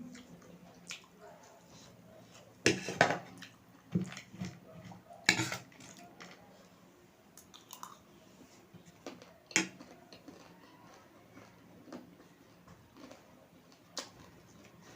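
Close-miked chewing of spicy instant noodles, with scattered sharp eating noises, the loudest a few seconds in and again a little after five seconds.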